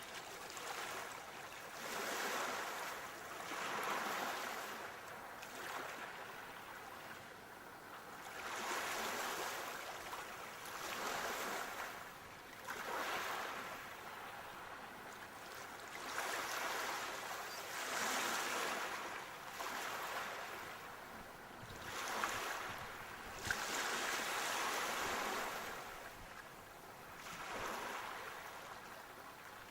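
Sea waves breaking and washing up the shore, the surf swelling and fading again every two to three seconds. Two short sharp clicks are heard briefly a little past two-thirds of the way through.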